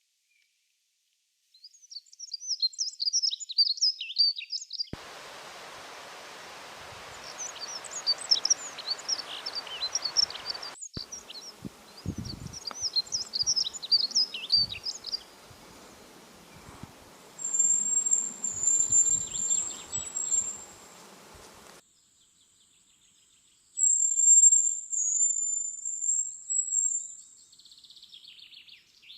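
Birds singing in quick, high twittering phrases, followed later by two long, thin, high-pitched trills.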